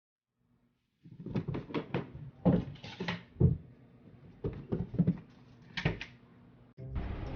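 Irregular knocks and clatters, a dozen or so over about five seconds, then a short burst of steady noise near the end.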